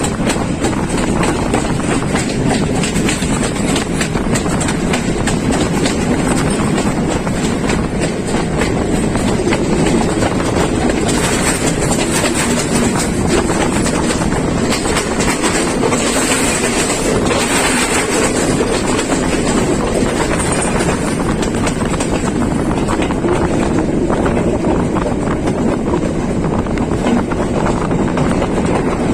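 Night Mail express passenger train running along the track, with a steady rumble and rattle from its wheels and carriages.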